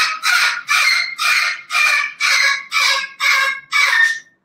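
A bird calling loudly in a run of about nine harsh, repeated squawks, roughly two a second, that stops just before the end.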